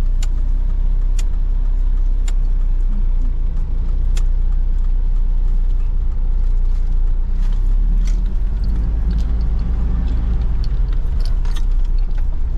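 Steady low rumble of a moving road vehicle heard from on board, with scattered small clicks and rattles.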